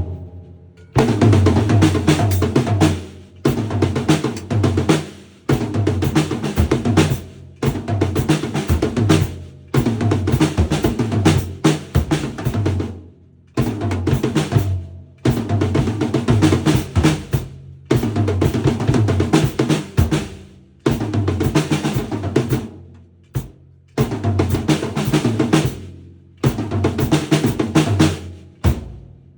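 Drum kit played in short fills of a second or two each, bass drum and snare together, stopping briefly between each one, about a dozen times over.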